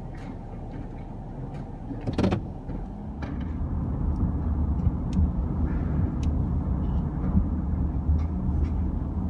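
Garbage truck's engine running, with a short burst of noise about two seconds in. After it the engine grows louder and stays loud.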